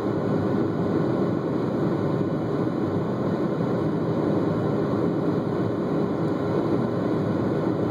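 Steady engine and airflow noise inside the passenger cabin of a Boeing 757 climbing after takeoff: an even, deep rush with a faint steady hum running through it.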